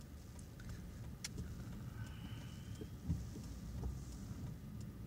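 Steady low rumble of a car driving, heard from inside the cabin, with a few faint clicks and one thump about three seconds in.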